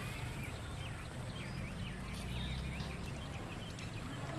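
Many short, rapid chirping calls from small animals overlap, over a low steady rumble.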